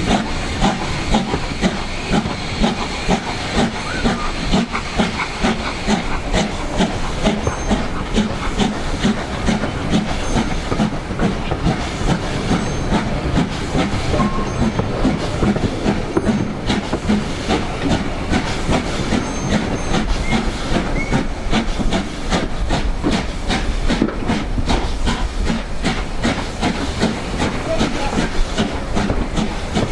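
LMS Black Five 4-6-0 steam locomotive working steadily under steam, its exhaust beating in a fast, even rhythm over a constant hiss of steam.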